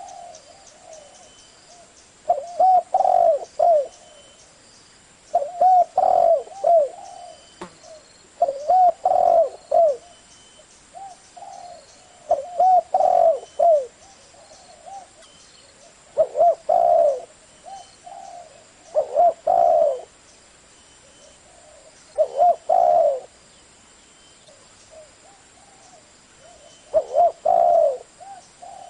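Spotted dove cooing: about eight short phrases of a few coos each, spaced a few seconds apart.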